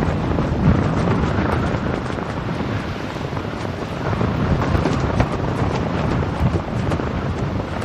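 Steady, loud rushing noise with wind buffeting the microphone, and faint scattered ticks over it.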